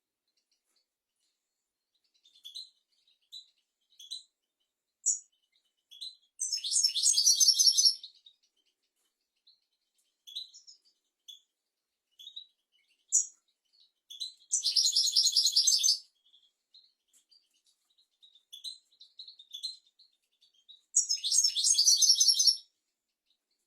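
European goldfinch singing, high-pitched: scattered short chirps and three longer, rapid twittering phrases of under two seconds each, the phrases coming about 6, 14 and 21 seconds in.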